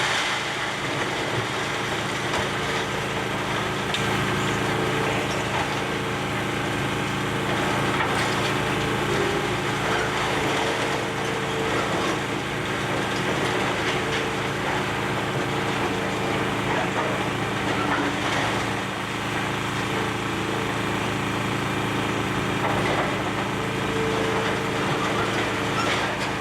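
Demolition excavator's diesel engine running at a steady pitch, with a few faint scattered knocks and cracks of work going on.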